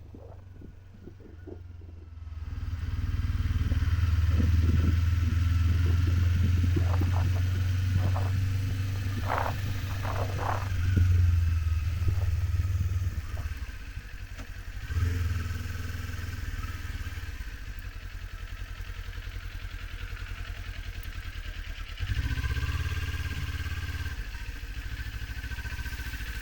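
Kawasaki Z400 parallel-twin motorcycle running under way, heard from the rider's helmet. It swells a couple of seconds in, eases off about halfway, then picks up again near the end, with a few short knocks in between.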